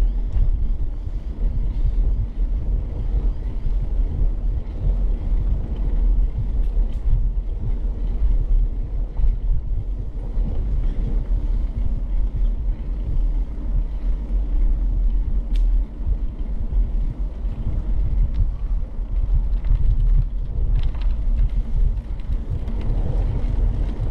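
Steady low rumble of wind buffeting a bike-mounted camera's microphone, mixed with tyre noise from a bicycle rolling along a trail.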